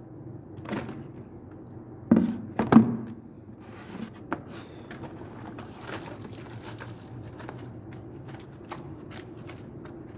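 Two loud thumps a little over two seconds in, less than a second apart, with scattered light clicks and knocks over a steady low hum.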